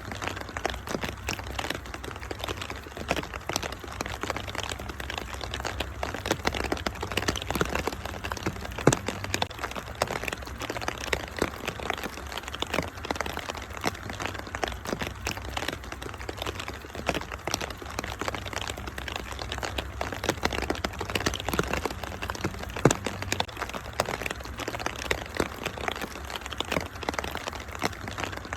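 Wood fire in a fireplace crackling, with many irregular sharp pops, over steady rain and a constant low rumble.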